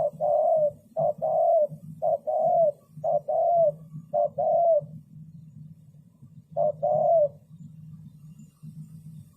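Spotted dove cooing: five two-note coos in quick succession, each a short note followed by a longer arched one, then a pause and one more coo.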